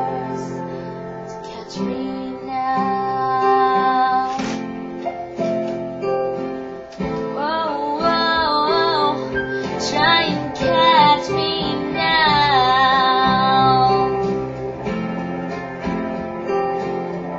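A girl's voice singing a slow, sad ballad over plucked acoustic guitar, holding long wavering notes in the middle stretch.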